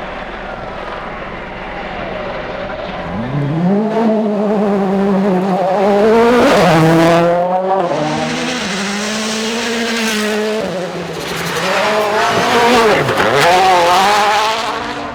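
A rally car at full throttle, its engine note climbing through quick gear changes as it approaches and goes past, easing off briefly and then accelerating hard again near the end.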